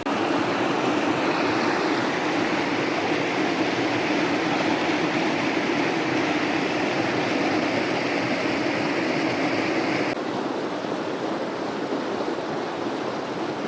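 Steady rush of water from a mountain river tumbling over a small waterfall. About ten seconds in, it abruptly turns a little quieter and duller.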